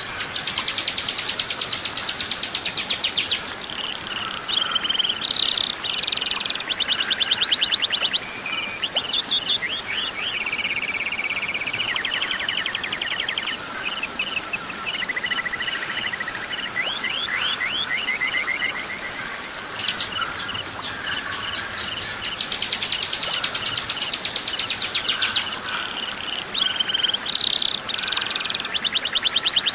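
A songbird singing a long, varied song: a fast high trill, then a string of shorter chirps and trilled phrases at changing pitches. The same sequence starts over about 20 seconds in, as in a looped recording.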